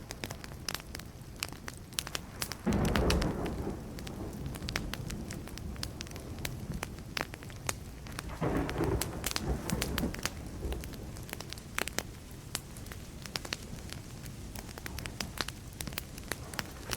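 Burning wood fire crackling, with many sharp pops throughout. Distant thunder rumbles twice, breaking in suddenly about three seconds in and again about eight seconds in.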